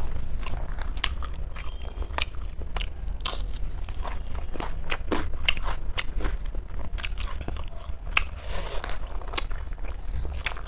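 Close-miked eating: a person chewing mouthfuls of rice and curry, with irregular wet mouth smacks and clicks, over a steady low hum.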